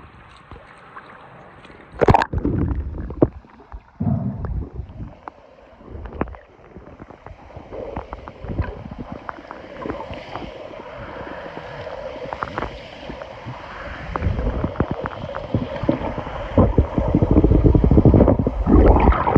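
Lake water churned by typhoon-driven waves, sloshing and splashing in irregular surges, with low rumbling buffets on the microphone. The heaviest surges come about two seconds in and again over the last five seconds.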